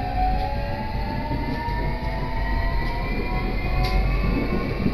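Electric train's motors whining as it picks up speed, several tones rising slowly in pitch, heard inside the carriage over a low rumble, with a few light clicks.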